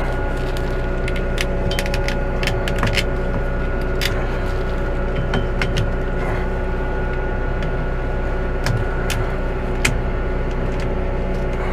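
New Holland T5 120 tractor's diesel engine running steadily at a constant speed, with scattered sharp clicks and knocks from the camera being handled and set in place.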